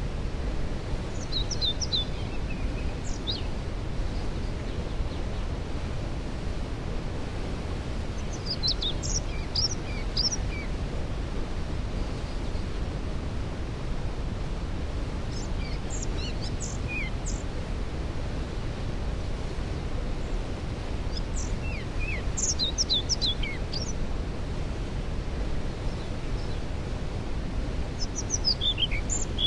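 Steady low rush of a waterfall in the background, with a songbird singing five short phrases of high, quickly falling notes, one about every six seconds.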